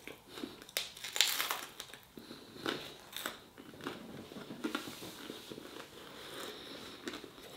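A person chewing a mouthful of roasted garlic flatbread with the mouth close to the microphone: short crackly bites and mouth noises at irregular intervals.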